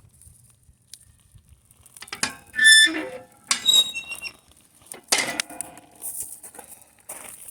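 Metal cookware being handled: a few ringing clanks and scrapes of metal on metal, the loudest about a third of the way in, with a shorter clank a second later and another about two-thirds of the way through.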